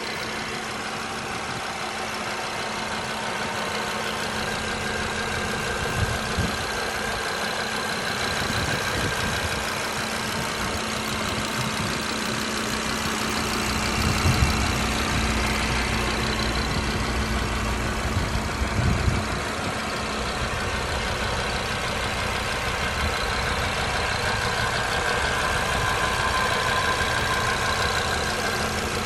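Audi RS 3's 2.5-litre turbocharged inline five-cylinder idling steadily, with a few brief low thumps.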